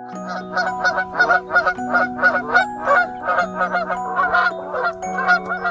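Goose honking over and over in quick, short calls, about four a second.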